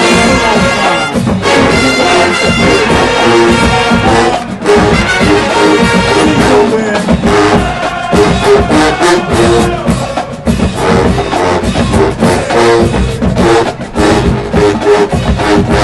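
A marching band playing: trumpets and trombones carrying the tune over steady, driving drumline hits.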